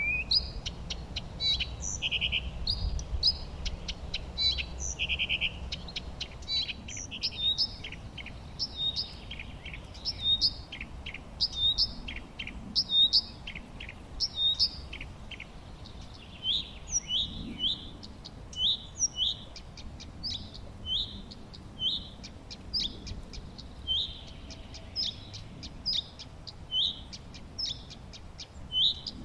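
Songbirds singing: many short, high chirping notes, with a fast trill a couple of seconds in and, in the second half, one bird repeating a short falling note about once a second. A faint low rumble sits under the first few seconds.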